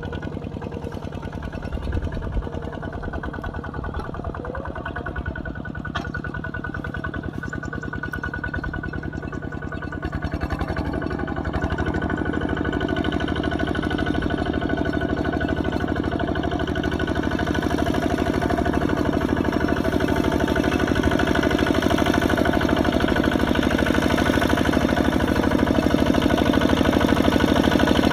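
Kubota RT140 single-cylinder diesel tractor engine running steadily, growing louder about a third of the way in as it comes nearer or takes more load.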